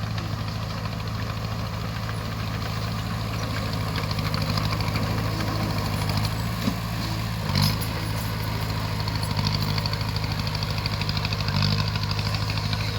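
Crawler bulldozer's diesel engine running steadily, briefly revving up twice, about halfway through and near the end, with a few metallic clanks.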